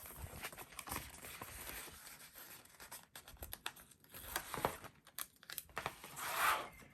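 Paper and sticker sheets rustling and crinkling as they are handled, with scattered small clicks and taps and a louder stretch of rustling near the end.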